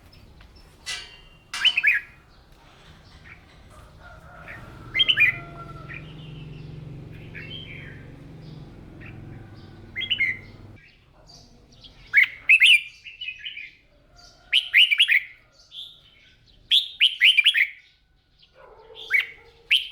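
Red-whiskered bulbul singing: short, bright, warbled whistle phrases repeated every one to two seconds, louder and closer together in the second half.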